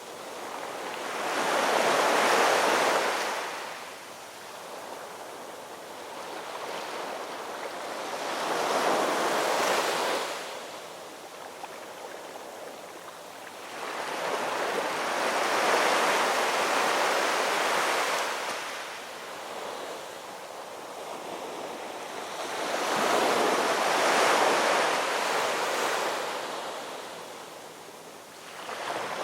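Gentle ocean waves, four swells of surf rising and falling several seconds apart.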